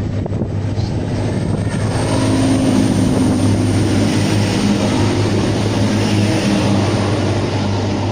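A train running through the station: a loud, steady engine hum over rail and wheel noise, a little louder from about two seconds in.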